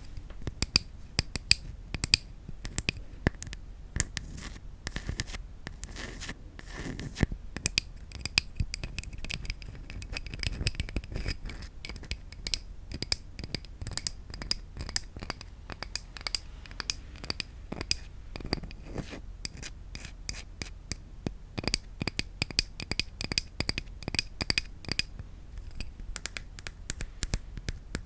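Rapid, irregular tapping on wooden objects: many quick, sharp clicks a second, some with a brief ring.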